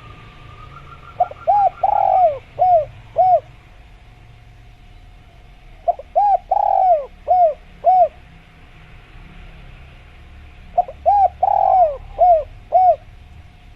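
Spotted dove (tekukur) singing three cooing phrases about five seconds apart, each a run of five or six short coos with a longer, louder coo in the middle.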